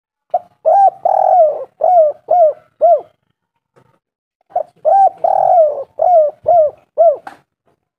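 Spotted dove (tekukur) cooing: two matching phrases of about seven notes each. Each phrase has a short note, a long drawn coo, and a run of shorter coos that rise and fall in pitch, with a pause of about a second and a half between the phrases.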